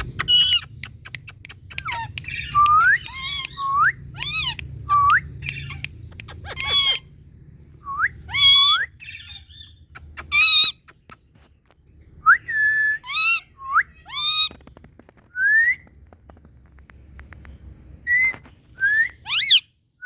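Indian ringneck parrot calling: a long string of short harsh squawks and rising whistles with gaps between them, over a faint low hum.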